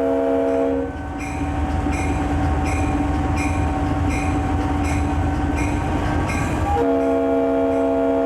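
Conrail diesel locomotive's air horn sounding a chord of several notes in a long blast that stops about a second in, then starts again a little before the end, as at a grade crossing. Between the blasts the locomotive bell rings evenly, about every half second, over the low rumble of the train.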